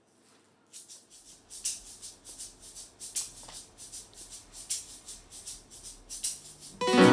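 A shaker playing a steady rhythm on its own, about four strokes a second. Near the end the band comes in with a loud chord on keyboard and guitar.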